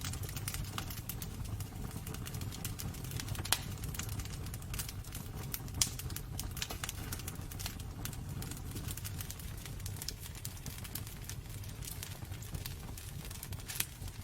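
Wood fire in a fireplace crackling, irregular small pops over a steady low rumble of the burning, with a few sharper pops standing out.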